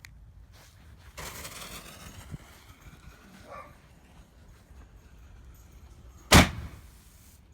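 A short hiss, then near the end one loud, sharp boom: an Excalibur 60 g canister shell firing out of its mortar tube.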